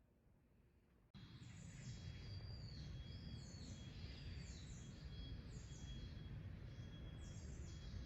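Small birds chirping repeatedly over a steady low background rumble, which starts abruptly about a second in after near silence.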